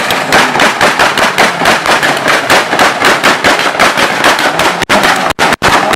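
Car exhaust banging in a rapid, regular string of loud cracks, about five or six a second, as on a rev limiter or launch-control pops map; near the end the bangs come further apart.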